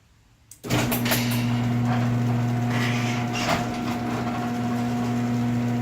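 Garage door opener, triggered by a relay, starting up: a short click about half a second in, then its motor runs with a steady hum as the door opens, with scattered clicks and rattles from the door's travel.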